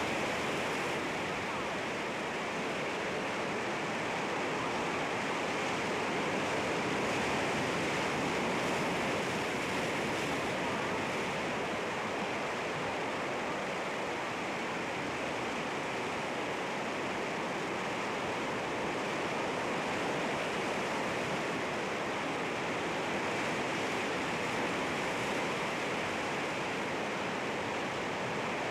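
Sea waves washing and breaking against rocks, a steady wash of surf with only gentle swells in loudness.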